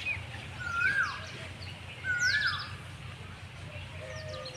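Wild birds calling: a short whistled note that rises and then levels off, given twice about a second apart, with a cluster of higher, sharper chirps near the middle. A low steady rumble runs underneath.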